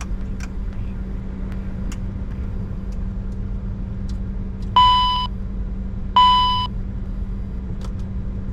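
Steady low cockpit hum of a Bombardier Challenger 605 taxiing after landing. Two identical electronic beeps sound, each about half a second long, roughly a second and a half apart, louder than the hum.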